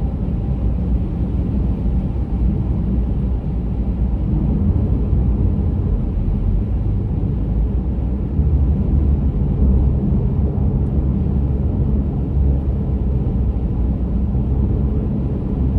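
A car driving along a highway: a steady low rumble of road and engine noise.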